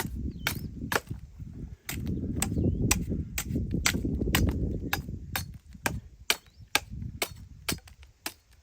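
Dry wood and bark snapping: an uneven run of sharp cracks, about two or three a second, over a low rumbling noise that fades after about five seconds.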